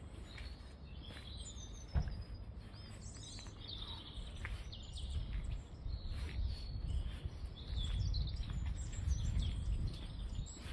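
Several small birds chirping and twittering in short, overlapping phrases, over a low steady rumble that grows louder in the second half. A single sharp click about two seconds in.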